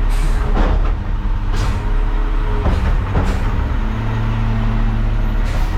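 Front loader garbage truck's diesel engine running steadily, with a few short hisses of air over it.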